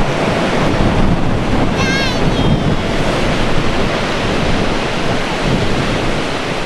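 Ocean surf washing in steadily, with wind buffeting the microphone. About two seconds in, a brief high-pitched wavering cry.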